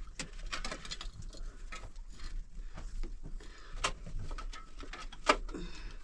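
Irregular light clicks and knocks from something being handled, with one sharper, louder knock about five seconds in.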